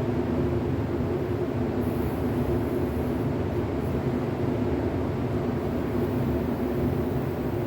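Paint booth ventilation running with a steady low machine drone.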